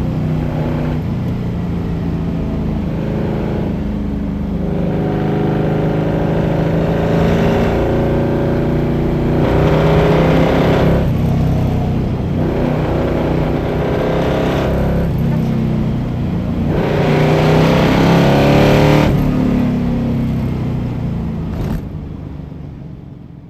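Iso Grifo's V8 accelerating hard, its note rising in repeated sweeps with short dips at the gear changes, then easing off and fading near the end.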